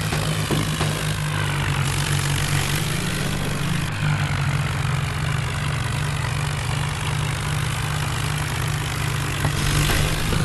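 Tractor diesel engine running steadily, its pitch rising briefly about three seconds in.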